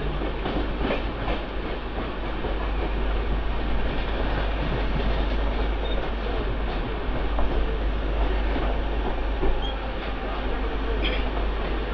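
Indian Railways express train's red LHB passenger coaches rolling past at speed: a steady, dense rumble and rattle of wheels running on the rails.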